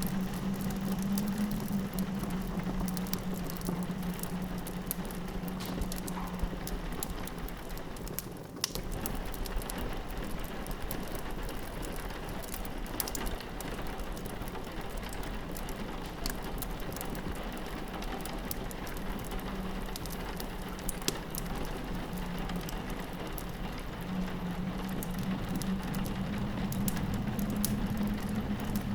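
Rain pattering against a window mixed with a crackling wood fire, full of small sharp pops and ticks over a steady hiss. A low steady wind drone underneath fades out after about six seconds and builds back up over the last ten seconds.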